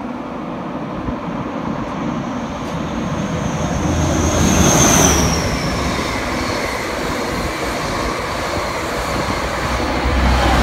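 Hitachi Azuma (Class 800-series) train slowing along a platform, its wheels rumbling on the rails. Over the rumble a high whine falls in pitch as it slows, loudest about halfway through.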